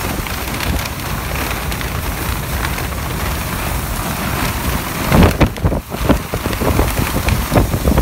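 Hurricane wind and driving rain, the gusts buffeting the microphone with a heavy rumble. The wind surges hardest about five seconds in.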